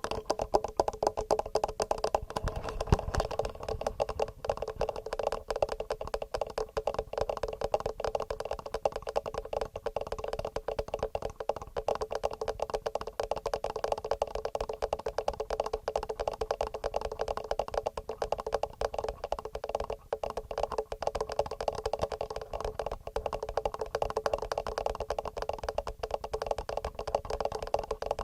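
Fast, steady fingernail tapping on a TASCAM recorder's microphones and body: a dense run of quick clicks that goes on without a break.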